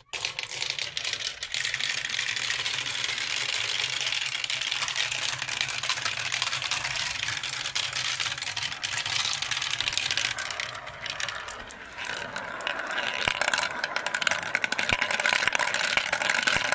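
Continuous dense rattling and clattering made of many small rapid clicks. It dips briefly about twelve seconds in, then comes back louder.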